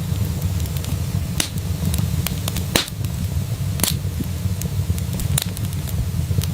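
Wood fire in a fireplace crackling: irregular sharp pops and snaps over a steady low rumble, with the two loudest pops about halfway through.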